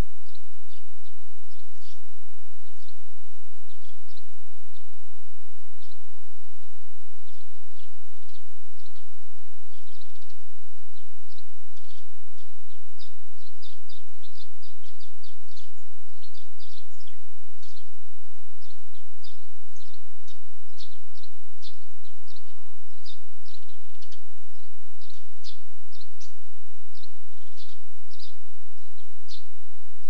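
Small birds chirping: many short, high calls that come thicker and faster in the second half, over a steady background hiss and low hum.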